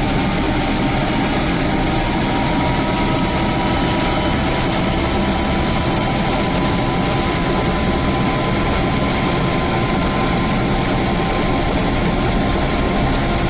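Helicopter in flight heard from inside the cabin: steady rotor and engine noise with a constant whine.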